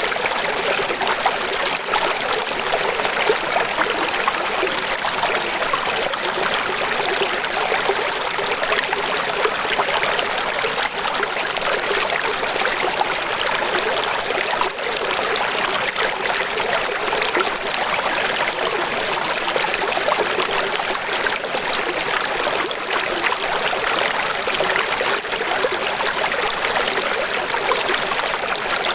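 Running water, a stream or small waterfall, splashing and trickling steadily. It is a bright, hissy rush with little low rumble and no breaks.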